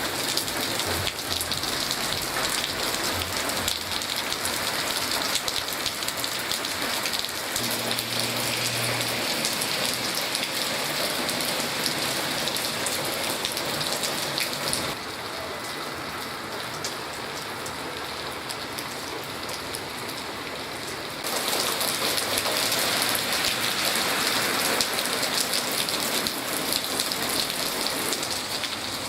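Steady rain falling on hard surfaces, a dense even hiss of drops. About halfway through it turns quieter for several seconds, then comes back at full strength.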